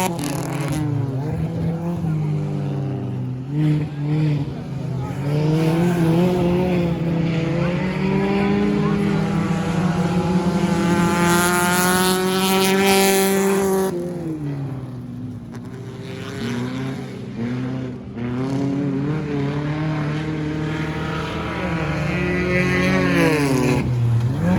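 Stock car engines running hard in an enduro race, several engine notes overlapping. Near the middle one car's engine climbs in pitch, then drops away as it passes.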